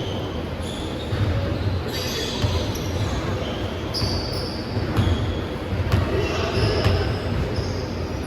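Basketball game in a gym: the ball bouncing on the court at uneven intervals, with short high-pitched sneaker squeaks in an echoing hall.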